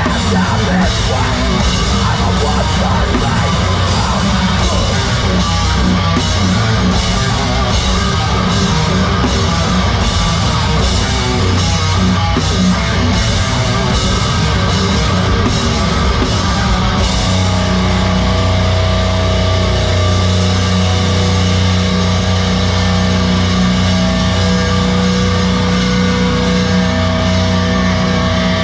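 A heavy rock band playing live and loud: distorted guitar over a steady drum beat. About 17 seconds in, the drums thin out and long guitar notes ring on.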